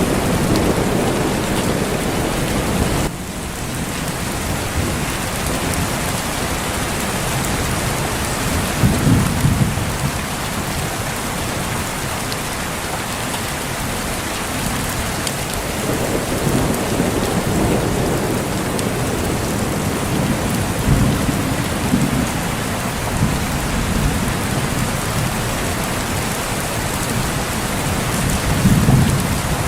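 Steady heavy rain falling, with low thunder rumbling several times: near the start, about nine seconds in, again through the middle, and near the end.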